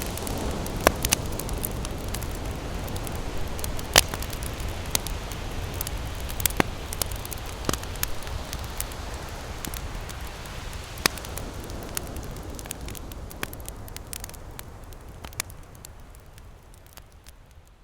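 Campfire crackling, with frequent sharp pops and snaps, over a steady low rush of ocean surf. The whole sound fades out over the last few seconds.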